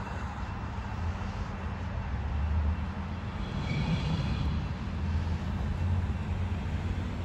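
Empty coal train rolling past with a steady low rumble that grows a little louder partway through. A brief high tone sounds about four seconds in.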